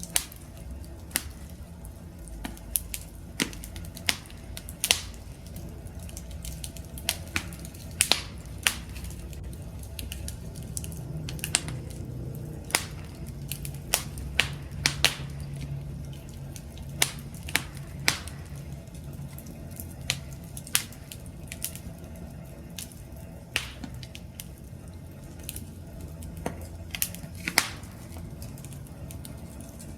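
Campfire crackling, with sharp irregular pops and snaps over a low steady rumble.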